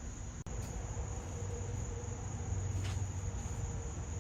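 Steady chorus of insects trilling, one unbroken high-pitched tone, over a low rumble.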